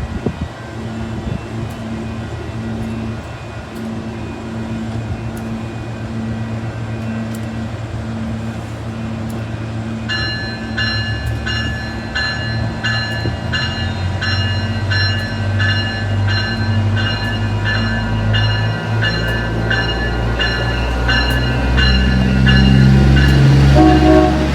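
SMART diesel multiple unit train running, with a bell ringing about twice a second from about ten seconds in. The diesel engines get louder near the end as the train works up to move off.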